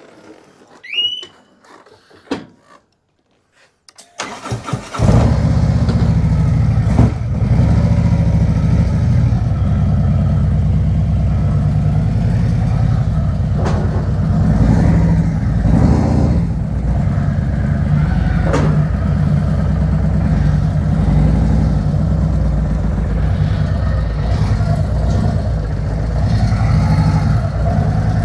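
Harley-Davidson Road Glide's Milwaukee-Eight V-twin engine starting about four seconds in, after a few faint clicks, then running steadily.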